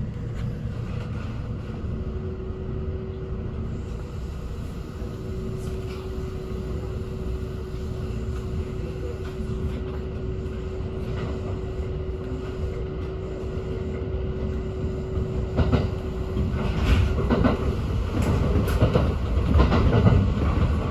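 Kintetsu express train heard from inside its front cab, pulling away and gathering speed: a steady low rumble with a thin steady hum. In the last few seconds it grows louder as the wheels clack over rail joints.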